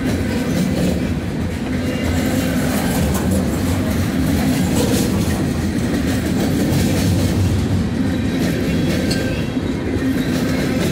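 Norfolk Southern freight train's covered hoppers and tank cars rolling past: a steady rumble of steel wheels on the rails, with a few sharp clicks from the wheels.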